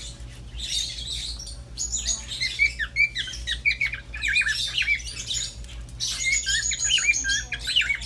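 Caged pet birds chirping and squawking in quick, overlapping short calls, with no break, over a faint steady low hum.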